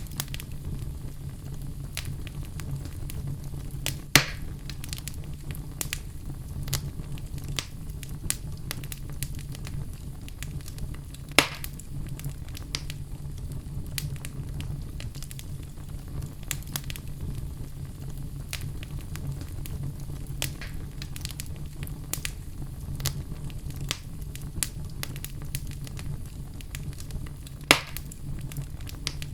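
Wood fire burning with a steady low rumble and frequent crackles and pops of burning logs, three of them louder snaps.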